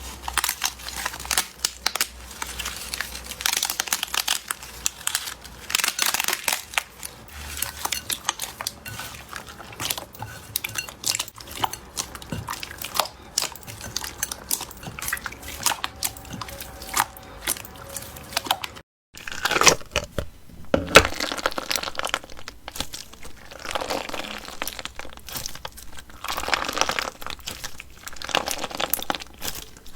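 Slime being squeezed, stretched and poked by hand, giving a dense stream of crackling, popping and crunching clicks. There is a brief silent break about two-thirds of the way through, after which the crackling goes on.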